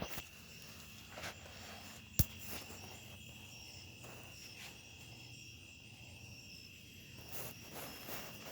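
Crickets trilling steadily at night, a high even tone with shorter repeated chirps above it. A single sharp click about two seconds in.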